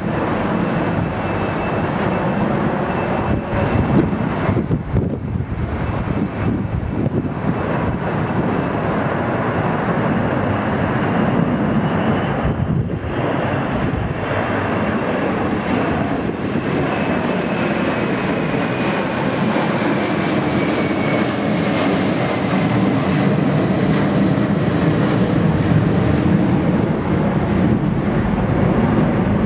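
Jet airliner engines running loud and steady, with a high engine whine that slowly falls in pitch in the second half as the aircraft passes.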